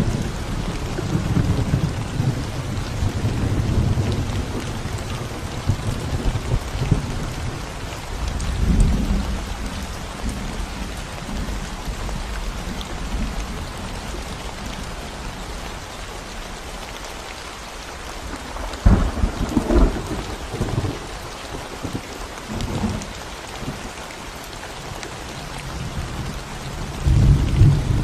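Steady rain falling on a concrete road and the plants around it, a constant hiss. Deep low rumbles swell and fade several times, strongest in a few sharp spurts past the middle and again near the end.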